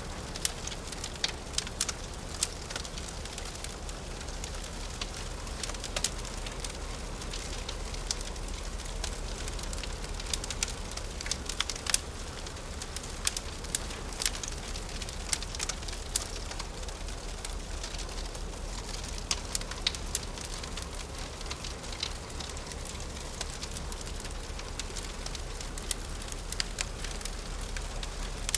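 Wood fire crackling in a fireplace: irregular sharp pops and snaps, several a second at times, over a steady hiss and low rumble.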